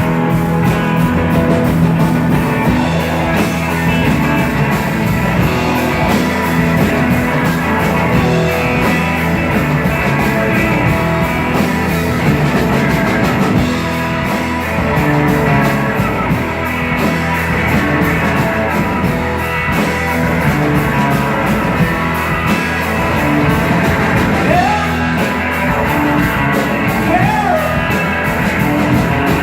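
A live rock band playing loudly and steadily, electric guitar over bass and drums, with a voice singing a few sliding notes near the end.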